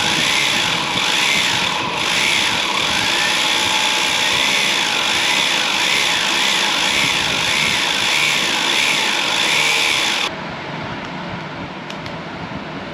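Small electric motor running at high speed with a high steady whine and a pitch that wavers up and down over and over, cutting off suddenly about ten seconds in and leaving a quieter steady hum.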